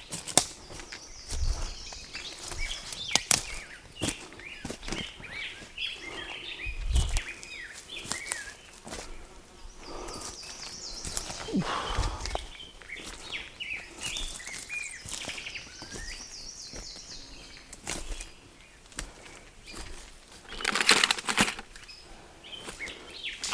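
Scattered clicks, knocks and rustling from hands working on black poly water pipe and fittings, with small birds chirping in the background. A short rush of noise comes near the end.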